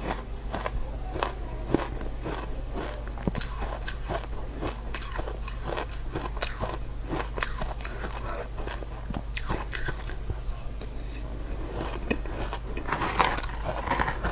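A person biting and chewing ice, close to the microphone: a dense, irregular run of sharp, crisp crunches over a steady low hum.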